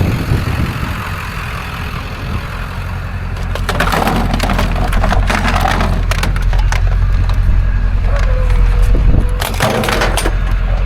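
Scrap being handled: a rapid run of clattering, cracking knocks, starting a few seconds in and bunching again near the end, over a steady low rumble.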